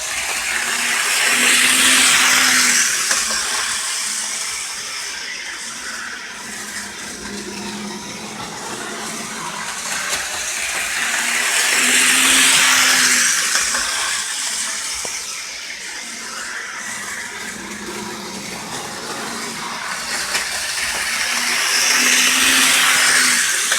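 HO-scale model train running around the layout's loop, a steady whir of small motor and wheels on track. It swells louder about every ten seconds as it passes close by, then fades.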